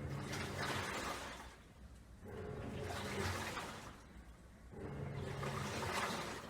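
Top-loading washing machine agitating a load in water: three strokes of motor hum and sloshing, each about a second and a half long, separated by short pauses.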